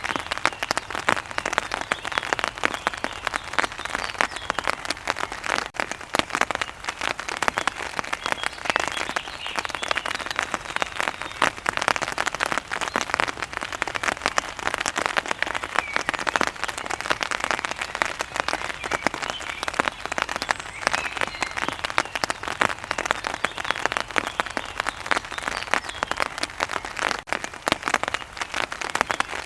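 Heavy rain falling steadily, a dense, even patter of countless drops striking a hard surface.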